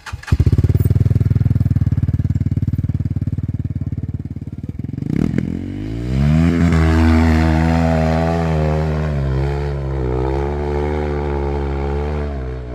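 Dirt bike engine running loud with a fast low pulsing. About six seconds in it rises in pitch and holds at higher revs that waver up and down.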